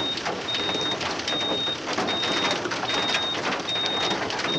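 Heavy rain pattering steadily, with a high electronic beep repeating a little faster than once a second.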